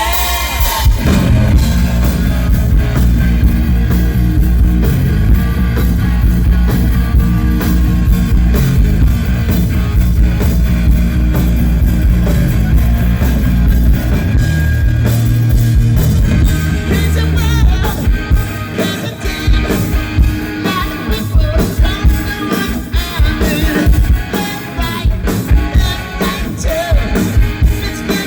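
Live hard rock band playing: distorted electric guitars, bass and drum kit with a singer, loud and heavy in the low end. From about 17 seconds in, the drums stand out in sharp repeated hits.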